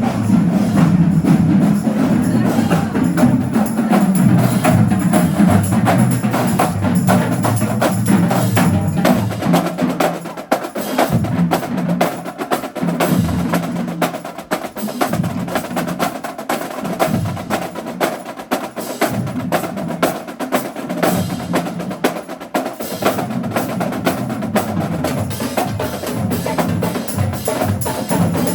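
High school marching band drumline playing a cadence: rapid snare strokes and sharp stick clicks over bass drum hits. The low end is dense for the first half, then the bass drums drop to spaced, separate hits.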